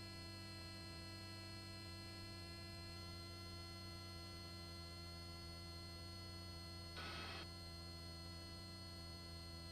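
Steady hum of held tones from the helicopter, heard faintly through the headset intercom feed. A brief burst of noise comes about seven seconds in.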